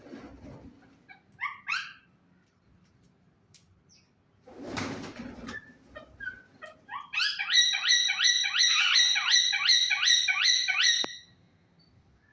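Green ringneck parakeets calling: a few short chirps, then a loud, rapid run of rising call notes, about three a second for some four seconds, ending abruptly about eleven seconds in. A brief rustle comes about five seconds in.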